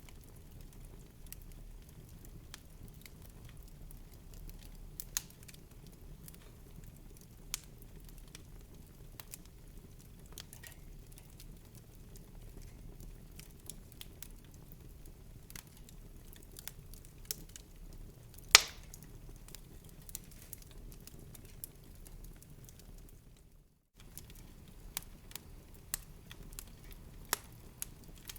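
Wood fire in a fireplace crackling: irregular small snaps over a low steady rumble of the flames, with one loud pop about two-thirds of the way through. The sound cuts out for a split second near the end.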